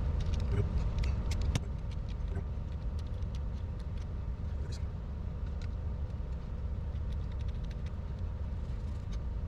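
Scattered light clicks and taps of small RC car drivetrain parts and tools being handled, over a steady low rumble.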